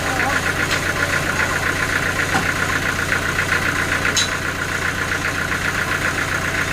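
Engine running steadily at an even speed, with a fast regular pulse and a few faint clicks.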